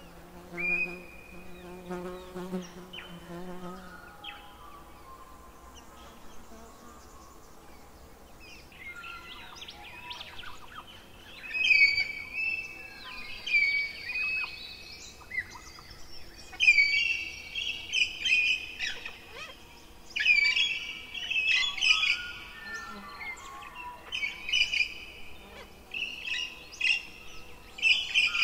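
Birds chirping and trilling, with many short calls in repeated bursts that grow thicker and louder from about ten seconds in. Before that, a low buzzing call is heard for the first few seconds.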